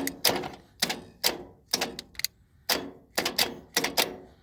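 A string of sharp, irregular clicks, about a dozen with short gaps between them, from the starter of a Massey Ferguson 35 diesel tractor as it is jumped by hand.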